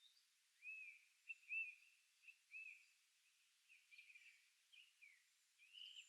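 Faint birdsong in a forest: a series of short, arched chirps, with a quicker jumbled phrase about four seconds in.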